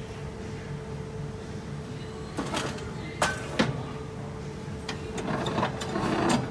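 A few sharp clicks and knocks, then a scraping, rustling handling sound that grows louder near the end, over a steady faint hum.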